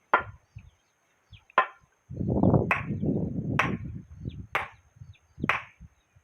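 A tool strikes wood in regular blows, about one a second, each a sharp crack. A low rumbling noise runs between about two and four seconds in.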